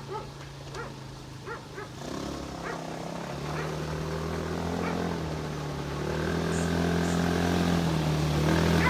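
Quad bike (ATV) engine running, growing steadily louder from about two seconds in as its pitch steps up, as when it revs or draws closer.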